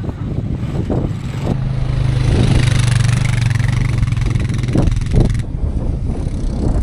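A large engine running steadily with a faint rising whine; it starts abruptly about a second and a half in and cuts off abruptly near the end.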